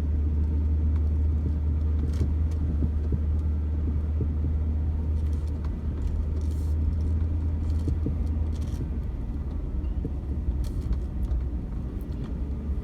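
Vehicle driving over a field: a steady low engine drone with rumble, and a few faint clicks and rattles.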